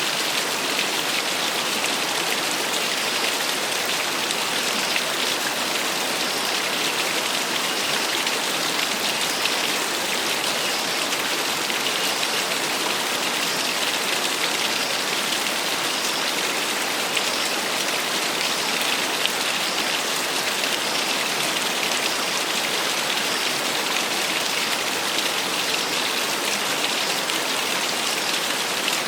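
Small waterfall: water falling and splashing in a steady, even hiss, with little low rumble.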